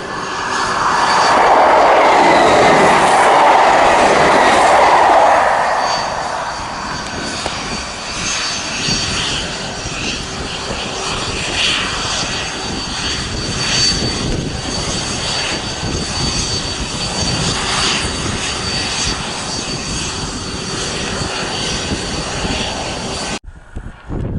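A fixed-wing aircraft flying past: a loud rush of engine noise swells in the first second or two, holds for a few seconds, then fades to a lower steady rumble that cuts off abruptly near the end.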